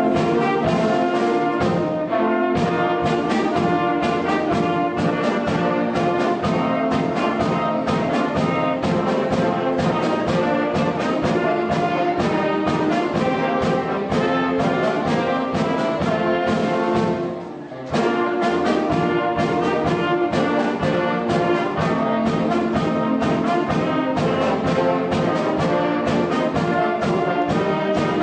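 Concert band playing a lively piece, with brass and saxophones over a drum kit keeping a steady, fast rhythm. It breaks off briefly about two-thirds of the way through, then comes back in.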